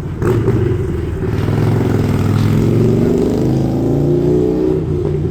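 Car engine and road noise. The engine pitch rises steadily as the car accelerates, then eases off near the end.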